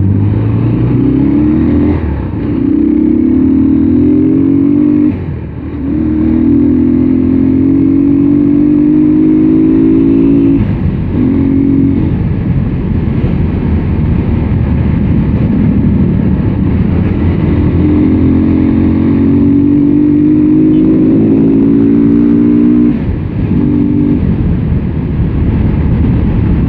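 Yamaha Scorpio Z single-cylinder four-stroke engine, fitted with a Pulsar 220 carburettor, under way through the gears. Its pitch climbs slowly for several seconds and drops back at each shift, several times over, with a less even stretch in the middle. The rider says the valves are ticking, and he takes them for loose rather than worn, on oil that is almost a month overdue for a change.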